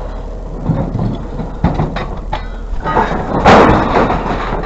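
Scrap caught on a truck's tailgate being yanked and dragged: a few knocks, then a loud scrape about three and a half seconds in, over a steady low hum.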